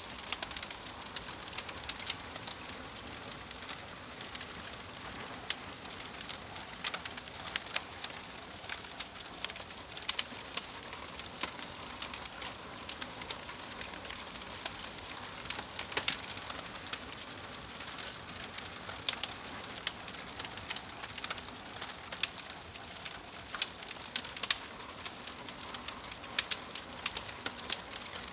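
Fire crackling: frequent irregular sharp pops and snaps over a steady soft hiss.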